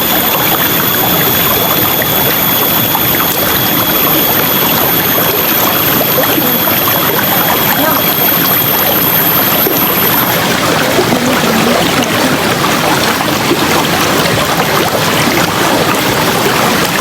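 River water rushing and splashing over rocks: a steady, loud flowing noise.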